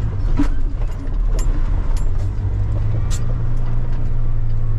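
Semi truck's diesel engine running, heard from inside the cab. Its low note steadies about two seconds in, with a few sharp clicks and rattles over it.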